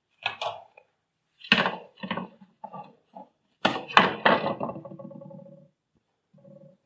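A series of knocks and clatters of hard parts being handled and set down, one with a short ringing tail, from a vacuum cleaner being reassembled.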